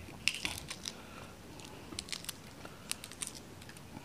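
Shell of a boiled balut duck egg crackling as it is picked off with the fingertips: a scatter of small, sharp clicks and cracks.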